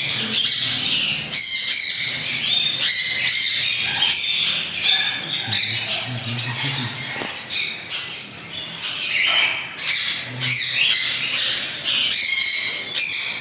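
Several parrots squawking and chattering, with many short, high calls overlapping almost without a break and a brief lull about two-thirds of the way through.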